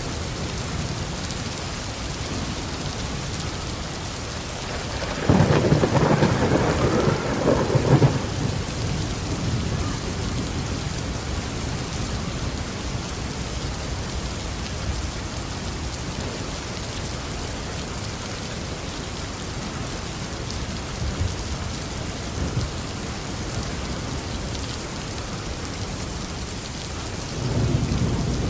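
Heavy rain falling steadily on a roof, with a thunderclap rumbling about five seconds in for some three seconds, and another roll of thunder building near the end.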